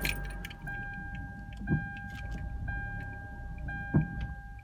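Kia Soul engine running at a cold idle and struggling, on the edge of stalling because its carbon-clogged idle control valve is stuck and starves it of idle air. A dashboard warning chime repeats about once a second, and there is a sharp thump about four seconds in.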